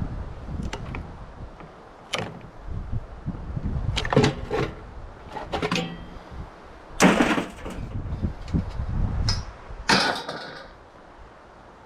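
Irregular knocks, clanks and scrapes of metal parts being handled and pulled apart as a microwave is stripped for scrap, with the longest, loudest scrapes about seven and ten seconds in. Wind rumbles on the microphone underneath.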